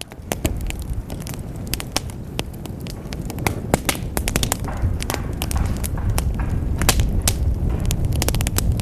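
Wood fire crackling in a fireplace: dense, irregular sharp pops and snaps over a low steady rumble of the flames. It swells in over the first half second.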